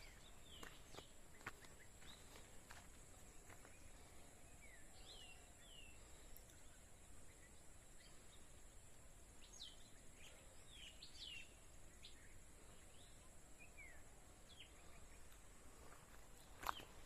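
Faint forest birds giving short, scattered chirps over a steady high hiss, with a few soft footstep clicks in the first two seconds and a louder click near the end.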